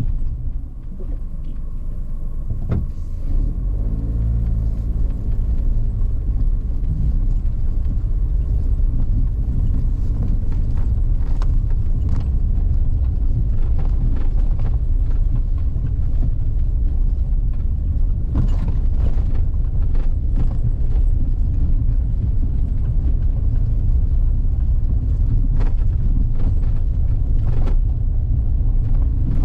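A vehicle travelling along a forest road: a steady low engine and road rumble, with an engine note audible for a few seconds near the start and scattered knocks and clatters throughout.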